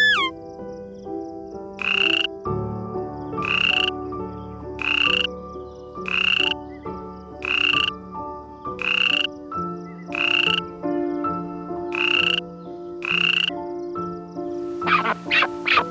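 An animal call, a short croak-like note repeated nine times about once every second and a half. Near the end come several quick, sharp falling calls. Soft background music plays underneath.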